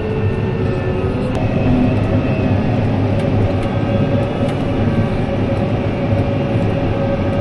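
Heavy diesel farm machinery running steadily: a dense low drone, with a steady whine joining about a second and a half in.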